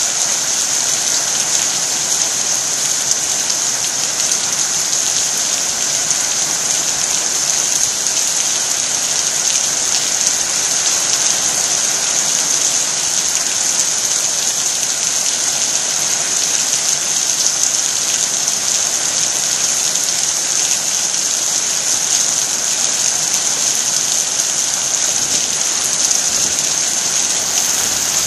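Heavy rain falling steadily, a dense unbroken hiss of drops hitting the ground.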